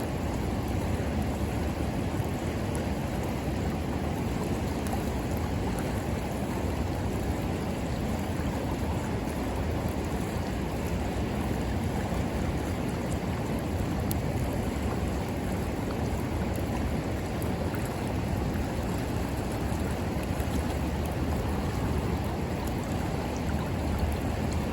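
A river flowing steadily, with a few faint crackles from a wood fire.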